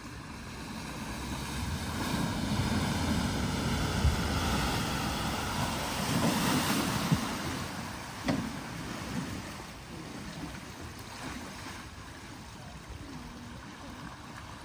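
Floodwater surging and splashing around a BMW X3 driven too fast through deep water, the mistake that floods its engine. The rush builds over the first few seconds, stays loud until about seven seconds in, then dies down, with a short knock about eight seconds in.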